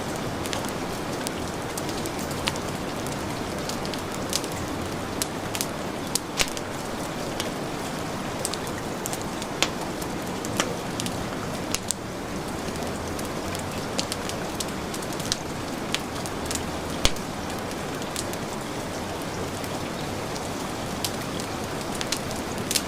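Steady heavy rain mixed with a fireplace fire crackling, its sharp pops coming at irregular moments, several every few seconds.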